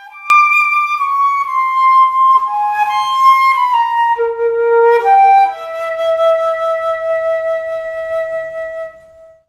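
A slow melody played on a wind instrument: a string of held notes stepping mostly downward, ending on one long sustained note that stops abruptly near the end.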